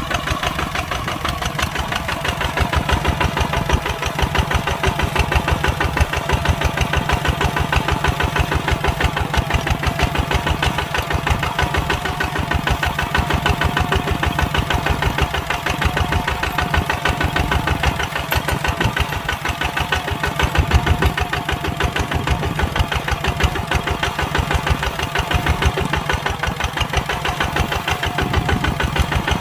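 Kubota tractor's diesel engine running steadily while plowing, with a fast, even chugging pulse and no change in speed.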